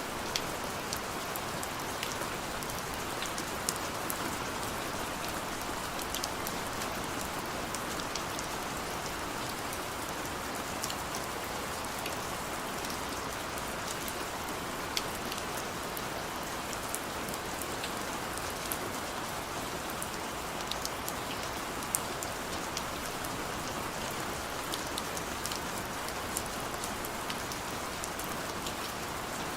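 Heavy rain falling steadily, a dense even hiss with individual drops ticking sharply on a hard surface throughout.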